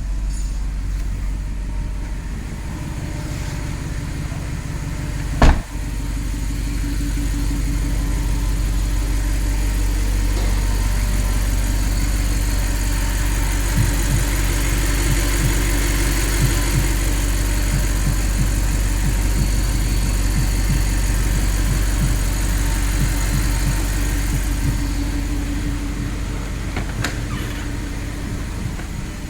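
Audi R8 engine running steadily after the no-crank, no-start fault was cured by repairing the ECU. It grows gradually louder through the middle and then eases back. A single sharp knock comes about five seconds in.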